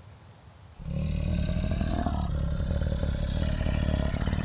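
Lion growling: one long, low rumbling growl that starts about a second in.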